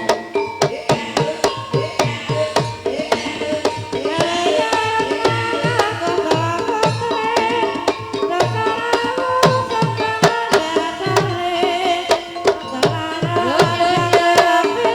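Ebeg accompaniment music: Javanese kendang hand-drum strokes, many bending down in pitch, driving a busy pitched ensemble melody at a fast, steady pulse.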